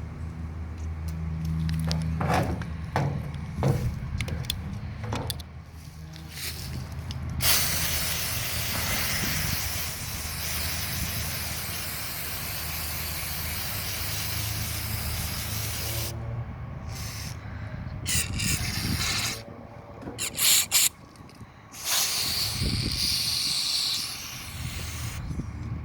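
Aerosol carburetor cleaner sprayed into a throttle body: several short hissing bursts, then one long continuous spray of about eight seconds, then more short bursts. A steady low hum runs underneath for the first half.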